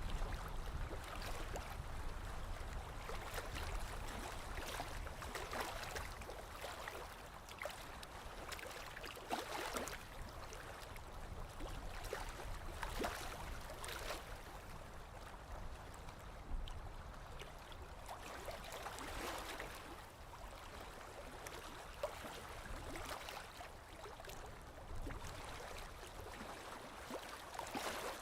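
Small lake waves lapping gently on the shore, soft splashes coming every few seconds over a low rumble.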